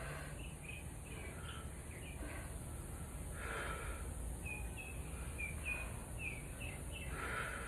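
Birds chirping, short high calls scattered throughout, over a steady low background rumble. Two breathy exhales, about three and a half and seven seconds in.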